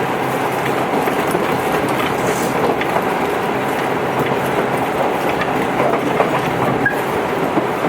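Tobu 8000 series electric train running at speed, heard from inside the car: a steady rumble of the ride with a faint hum of the motors and gears and light clicks from the wheels on the track.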